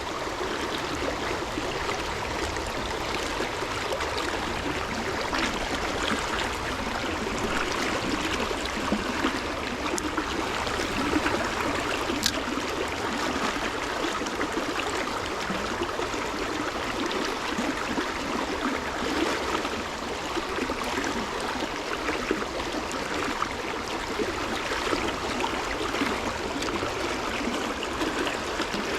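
Steady rushing and gurgling of a flowing stream.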